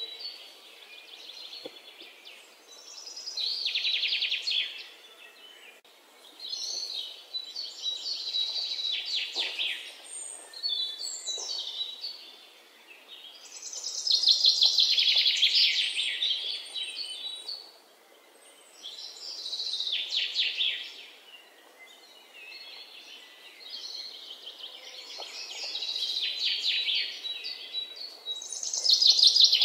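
Birds chirping in repeated bouts of rapid, trilled calls a few seconds apart, over a faint steady hiss.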